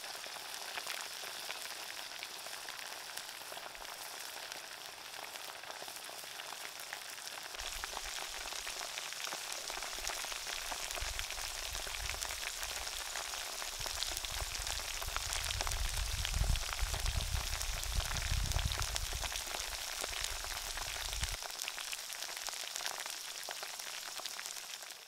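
Crickets frying in a clay pot over a wood fire: a dense, steady sizzle full of fine crackles. A low rumble runs underneath through the middle stretch.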